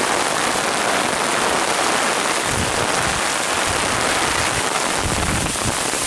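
Heavy hurricane rain pouring steadily, pattering on an umbrella overhead, with intermittent low rumbles joining in from about two and a half seconds in.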